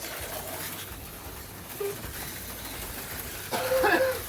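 Steady faint whir of HO slot cars running on the track. Near the end a dog gives a brief, loud, pitched vocal sound.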